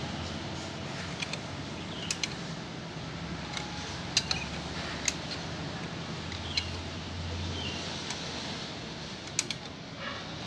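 Scattered sharp metallic clicks and taps of hand tools on a diesel engine's valve gear, a few seconds apart and twice in quick pairs, over a steady low hum, while the engine is turned over by hand to bring the next cylinder to top dead centre for valve adjustment.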